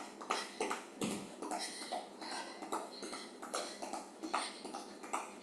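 Running shoes landing on the floor as a person skips in place, quick irregular footfalls about three times a second.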